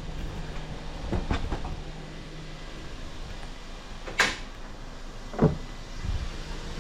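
A few scattered clicks and knocks from handling the hood and its push-button hood pins, the sharpest a single click about four seconds in.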